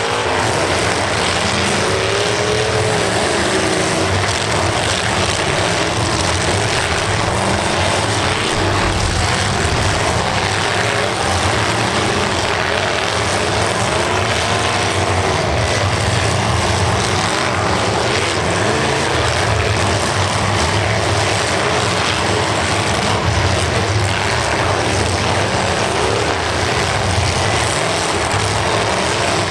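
Several demolition derby cars' engines running loud and continuous, revving up and down as they drive and ram each other.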